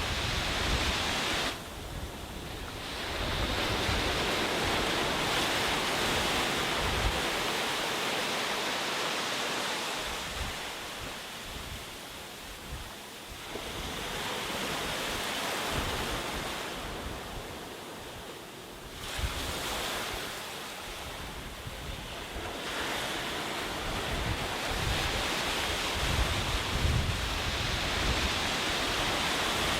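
Sea waves breaking and washing up a beach, the surf swelling and ebbing every few seconds, with wind buffeting the microphone in low rumbles.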